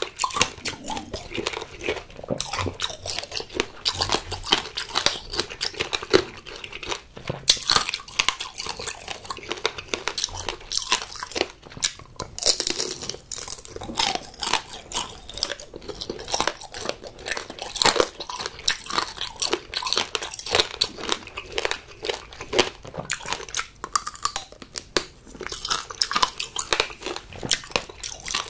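Close-miked crunching and chewing of green grape tanghulu: the hard sugar-candy shell cracks between the teeth in many sharp crackles, over and over.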